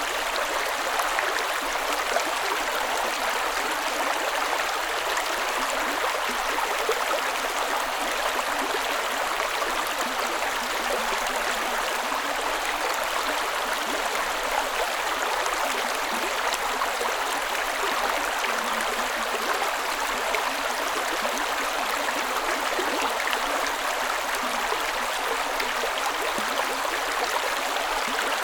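Creek water running over rocks: a steady, even rush with fine gurgling and splashing.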